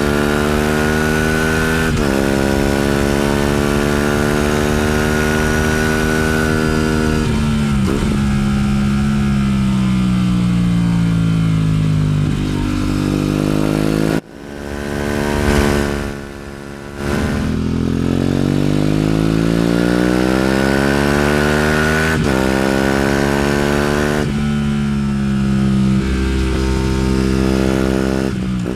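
Aprilia RS 457's liquid-cooled parallel-twin engine being ridden hard. Its pitch climbs under acceleration, drops suddenly at each gear change and slides down as the bike slows, with a brief break about halfway through.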